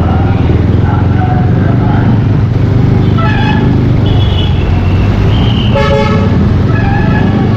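Yamaha Aerox 155 V2 scooter's single-cylinder engine running steadily through a full Yoshimura exhaust while riding in traffic, with a short vehicle horn toot about six seconds in.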